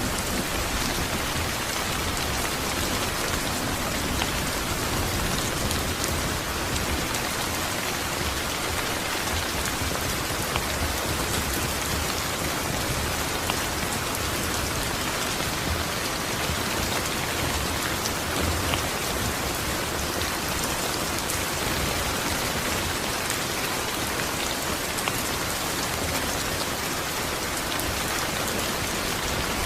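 Steady heavy rain falling on a surface, an even hiss with scattered drop patters. Faint low rumble at the very start as a thunder roll fades out.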